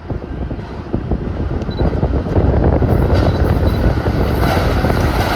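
Twelve-car Long Island Rail Road M3 electric multiple-unit train running through at speed without stopping, its rumble of wheels on rail growing steadily louder as it comes closer.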